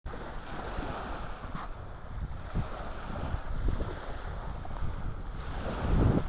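Wind buffeting the microphone over the wash of surf, with a stronger gust near the end.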